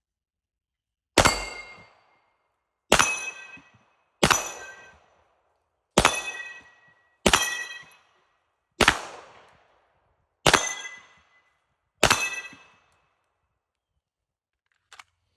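Eight pistol shots from a 9mm Canik Rival S, about one and a half seconds apart, each followed by the ring of struck steel target plates fading away.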